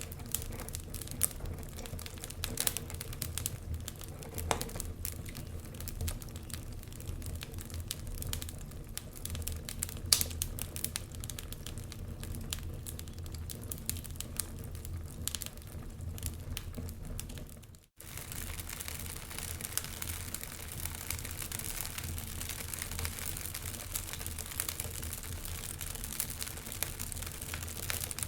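Logs burning in a fireplace, crackling with irregular sharp pops and snaps over a steady low hiss. The sound cuts out suddenly for an instant about two-thirds of the way through, then the crackling goes on.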